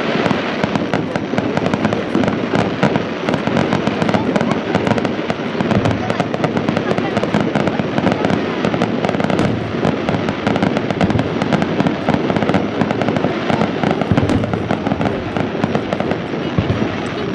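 Aerial fireworks shells launching and bursting in a rapid, continuous barrage, bangs and crackle overlapping without a break.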